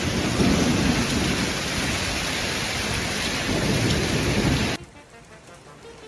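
Heavy rain pouring down with low rumbles of thunder during a thunderstorm, cutting off abruptly about three-quarters of the way through, after which only a faint background remains.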